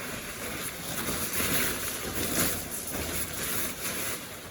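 Rustling and crinkling of a car cover and its plastic packaging being handled, with a few louder swells.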